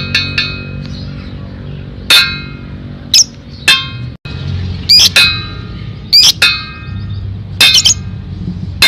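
Lovebird calling: a rapid trill that breaks off just after the start, then single sharp, shrill chirps about once a second or so. A steady low background hum of music runs under the calls.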